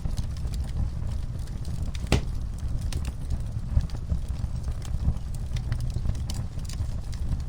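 Wood fire burning in a fireplace: a steady low rumble of flames with scattered irregular crackles and pops, one sharper pop about two seconds in.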